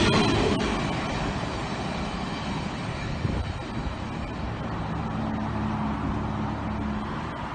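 Freight train's covered hopper wagons rumbling past on the rails, the noise dropping quickly in the first second as the last wagons go by, then a steady fading rumble as the train recedes. A low steady hum joins in about five seconds in and stops near the end.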